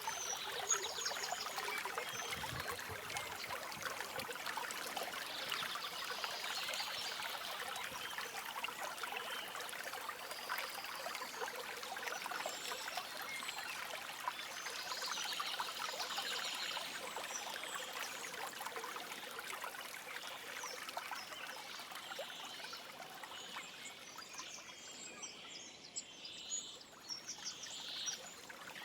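A small stream running and trickling over stones, with songbirds chirping on and off throughout. Near the end the water sound thins and the bird calls stand out more.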